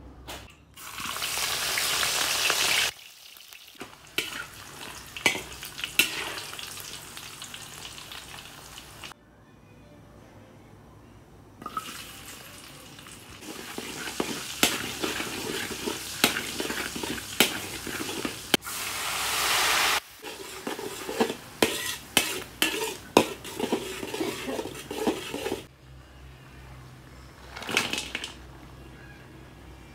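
Hot oil sizzling in a wok as sliced onion and garlic fry, with a metal spatula scraping and clicking against the pan. The sizzle comes in several separate stretches with short breaks between them.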